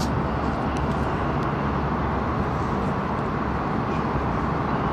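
Airport Railroad express train running at speed, heard from inside the carriage: a steady rumble and rushing noise, with a few faint ticks in the first second and a half.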